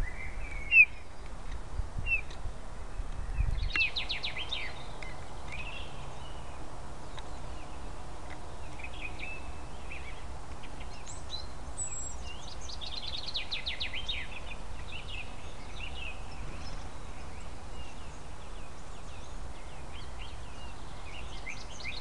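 Small songbirds chirping and calling, with two fast rattling trills, one a few seconds in and a longer one about halfway through, over a steady low background rumble.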